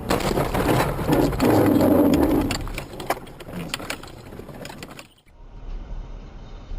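Car collision heard on a dashcam: a sudden loud crunching, scraping noise for a couple of seconds, then scattered rattling clicks, cut off abruptly about five seconds in.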